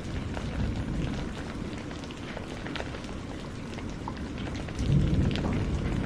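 Steady rain with scattered individual drops ticking. A low thunder rumble dies away at the start, and another rumble swells about five seconds in.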